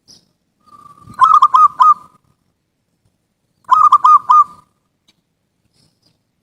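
Zebra dove (perkutut) cooing: two phrases, each a short lead-in note followed by three or four quick, clipped coos.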